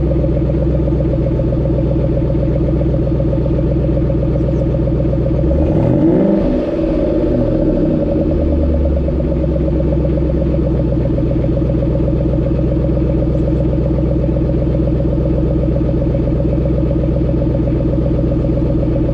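Stock exhaust of a 2012 Ford Mustang GT500's supercharged 5.4-litre V8 idling steadily, with one quick rev about six seconds in that rises and drops back to idle.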